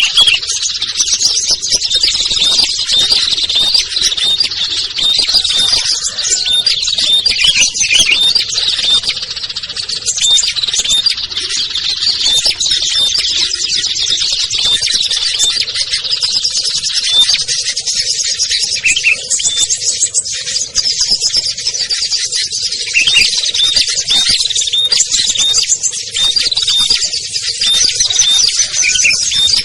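A dense, unbroken chorus of small songbirds chirping and trilling, high-pitched and busy: a mixed small-bird lure recording.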